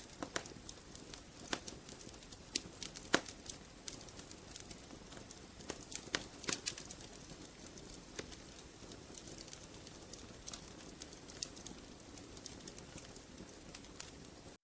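Wood fire crackling in a fireplace: irregular sharp pops and snaps over a steady hiss, the loudest pops about three seconds in and again around six and a half seconds.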